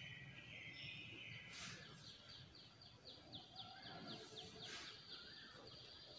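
Near silence, with faint bird chirping: a quick run of short, high repeated notes, about five a second, through the middle.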